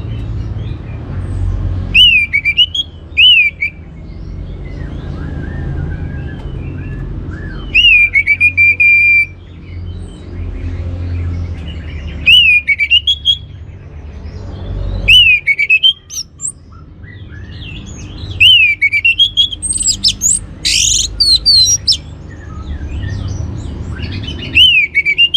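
Orange-headed thrush singing: short phrases of quick, slurred whistled notes that come every few seconds. About twenty seconds in there is a denser, louder phrase that climbs higher. A low rumble fills the gaps between phrases.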